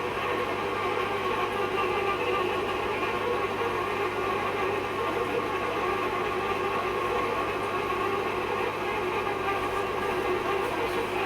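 A steady mechanical hum with several fixed tones that holds unchanged throughout.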